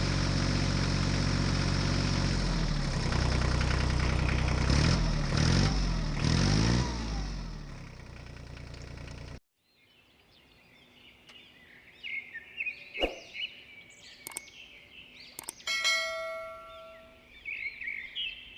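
An engine running steadily, its pitch rising and falling a few times, cuts off suddenly about nine seconds in. Then birds chirp over a quiet background, with a few sharp clicks and a brief ringing tone.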